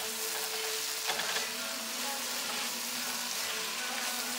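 Spiced deer meat sizzling as it dry-roasts in a frying pan, stirred with a wooden spatula, with a steady hiss and a brief knock about a second in.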